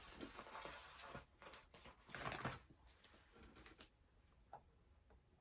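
Faint rustling and a few light clicks of a decal sticker being handled and pressed into place, with a short louder rustle about two seconds in.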